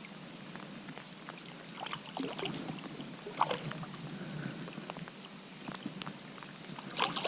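Creek water running steadily, with a few short, sharp sounds about two, three and a half, and seven seconds in.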